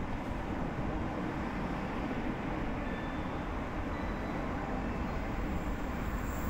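Steady low background rumble around the station. Near the end, a Shinkansen bullet train coming along the elevated viaduct adds a rising high hiss.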